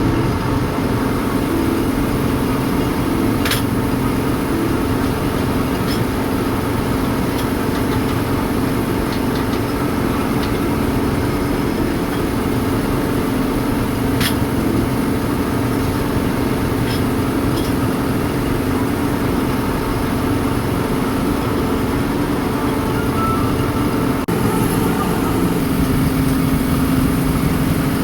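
Workshop machinery running with a steady hum, and a few light clicks and taps on top.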